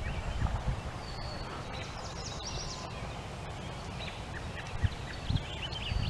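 Songbirds calling in the background: short high chirps scattered throughout, with a brief steady whistle about a second in and a cluster of higher notes between two and three seconds in. A low, uneven rumble runs underneath.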